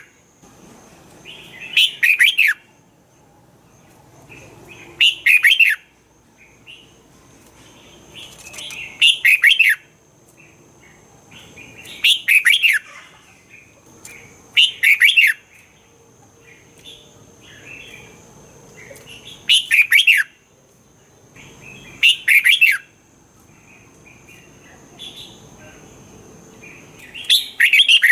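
Red-whiskered bulbul singing: short loud phrases of quick falling whistled notes, about eight of them a few seconds apart, with softer chirps in between.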